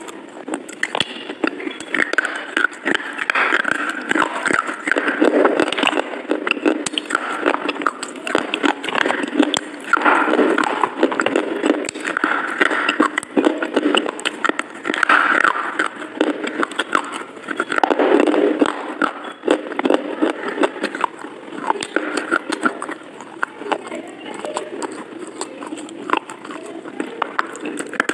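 Close-miked mouth sounds of biting and chewing a brittle white stick: dense, irregular crunching and crackling clicks.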